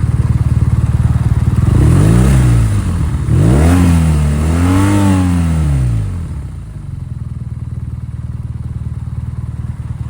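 BMW R nineT's 1170 cc boxer twin idling, with the rough idle its owner complains of. It is revved three times in quick succession, from about two seconds in until about six seconds, then drops back to idle.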